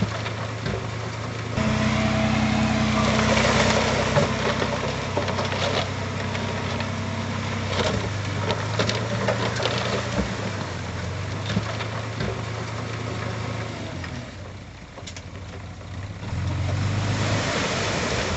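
Diesel engine of heavy earthmoving equipment running. It rises under load about a second and a half in, eases off about fourteen seconds in and picks up again near the end, with scattered metallic clanks.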